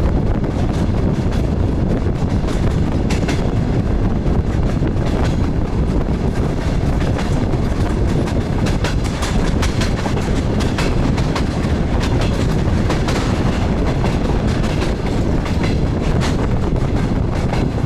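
DR1A diesel multiple unit train running, heard from on board: a steady, loud rumble with the clickety-clack of the wheels over rail joints coming as scattered clicks.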